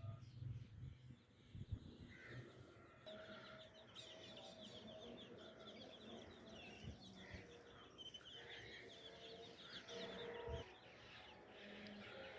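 Faint peeping of newly hatched chicks, with a dense run of rapid high chirps through the middle, and a hen clucking.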